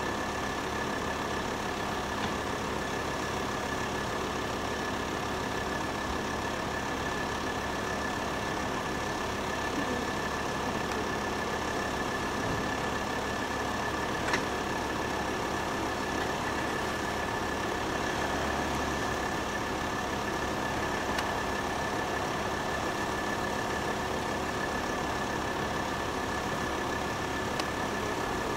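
Steady drone of an idling engine, with a thin high whine held on one pitch throughout and a faint click about fourteen seconds in.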